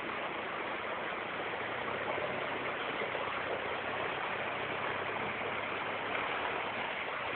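Toyota Hilux engine running low and steady, under a continuous rushing of water as the truck works through a water crossing.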